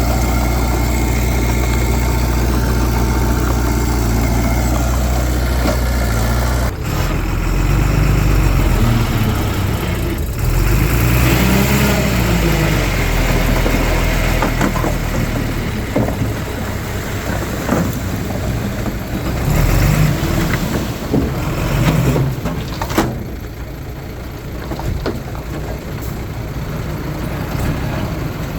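Heavy diesel engines of earthmoving machinery working. For about seven seconds an engine runs steadily. Then the sound changes abruptly to engines revving up and down under load, with scattered clanks and knocks.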